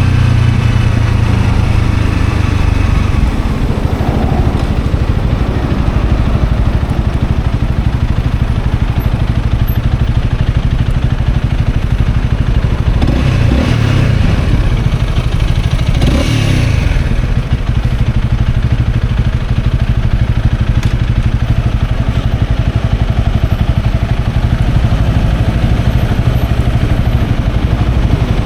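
Honda CL250 motorcycle engine running steadily under way, with road and wind noise. Two brief louder swells come about halfway through.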